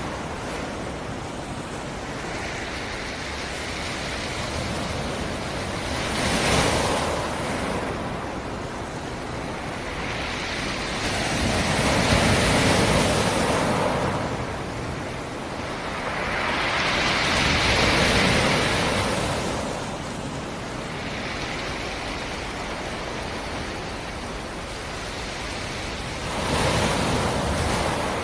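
Sea surf: waves breaking on the shore in slow swells of rushing noise, about four surges a few seconds apart.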